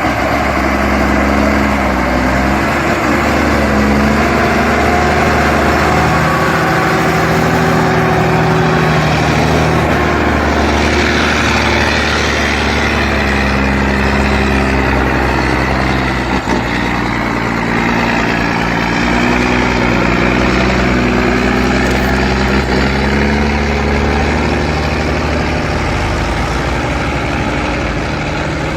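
Heavy logging truck's diesel engine running hard under load, its pitch shifting up and down as it works.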